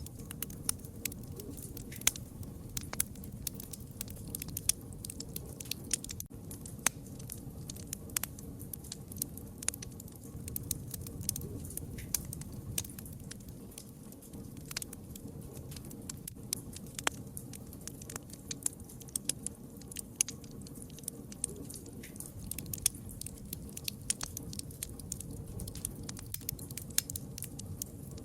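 Campfire crackling: irregular sharp pops and snaps, several a second, over a steady low rush of burning wood.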